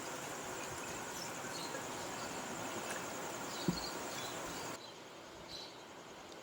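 Steady background hiss with a high, faint pulsing trill and a few soft chirps, and a single soft knock about four seconds in; the hiss and trill drop away suddenly near the end.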